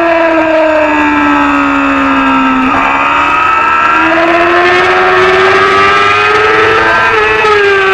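Small-displacement Supersport 300 racing motorcycle engine at high revs. The revs fall for the first few seconds, then climb again under acceleration, with a gear change near the end.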